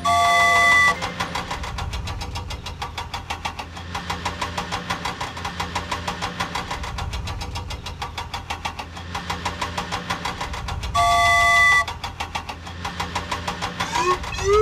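Vehicle engine sound effect chugging steadily at about five beats a second, with a long loud honk at the start and again about eleven seconds in. Near the end a run of short rising whistles comes in.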